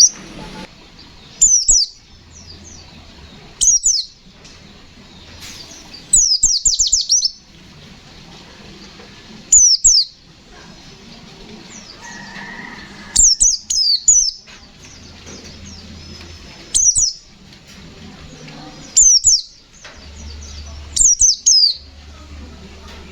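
White-eye (pleci, Zosterops) singing in rapid, loud bursts of high, quickly falling notes, each burst under a second long and repeated every two or three seconds: the fast "shooting" song of a bird in full song.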